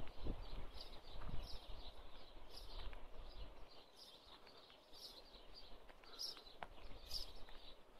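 A small bird chirping over and over in short, high chirps. Under it is a low rumble with a few soft thumps in the first couple of seconds, from footsteps and handling as the phone is carried along.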